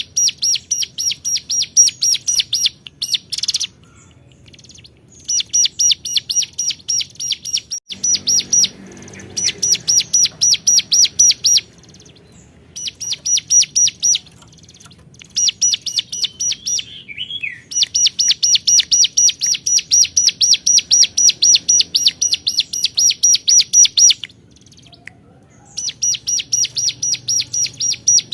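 Ciblek gunung, a mountain prinia, giving its rapid 'cuap-cuap' call: runs of sharp, evenly repeated chirps, about five a second, lasting a few seconds each with short breaks between runs. It is the bird's challenge call to a rival.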